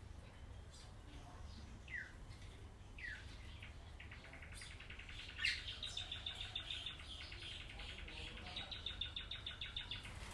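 Birds chirping: two short falling whistled notes, then a rapid trill repeated for several seconds, over a low steady hum.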